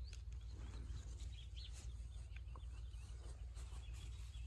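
Faint outdoor ambience with a few scattered distant bird chirps over a steady low rumble.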